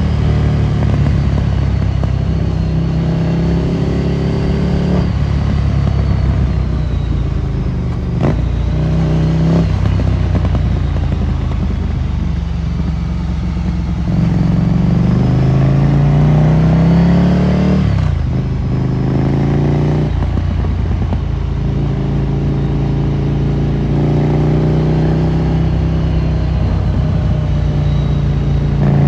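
Ducati Monster 797's air-cooled L-twin through a Termignoni exhaust, ridden hard: the engine pitch climbs under throttle and drops back sharply several times as the rider shifts and rolls off.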